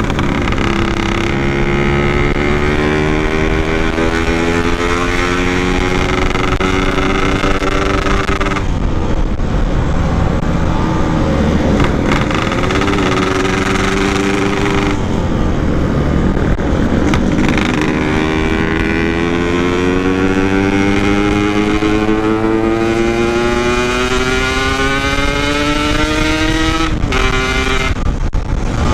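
Yamaha RX-King 135cc two-stroke single-cylinder engine under way. Its note climbs steadily in each gear, then drops briefly at each shift, about four times.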